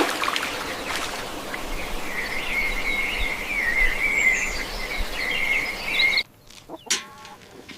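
Outdoor natural ambience with a steady hiss and a continuous, wavering high-pitched trill that begins about two seconds in. Both cut off abruptly about six seconds in, leaving a quieter stretch with a few faint short sounds.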